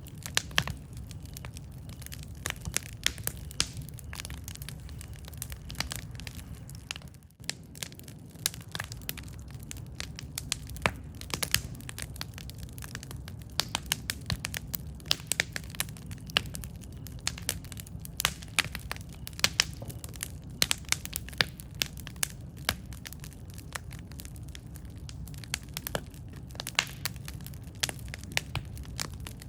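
Campfire burning: a steady low rumble of flames with frequent sharp, irregular crackles and pops of burning wood, briefly quieter about seven seconds in.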